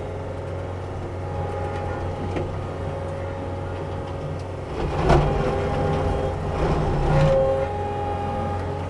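Diesel engine of a tracked heavy machine running steadily under a hydraulic whine. About five seconds in, and again around seven seconds, it surges louder with a rough grinding noise as the machine works against the trees.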